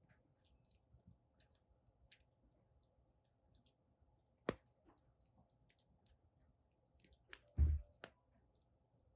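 Wood fire crackling in a fire pit: scattered small clicks and pops, with one sharp pop about four and a half seconds in. A low thump comes about seven and a half seconds in, among a few more pops.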